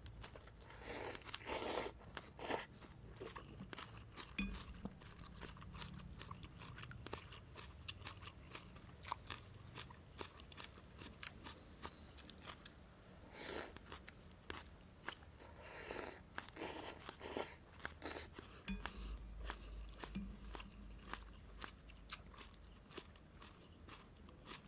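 Close-miked eating of beef noodle soup: steady small chewing clicks, with louder bites or slurps a few times near the start and again past the middle.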